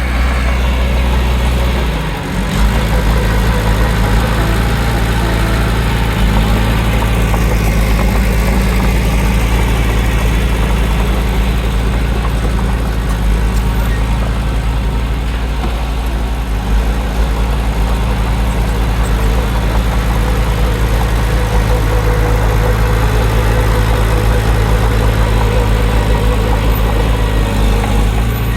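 Heavy diesel engine of earthmoving machinery running steadily at a low, even hum; its tone shifts slightly about two seconds in and drops a little about three-quarters of the way through.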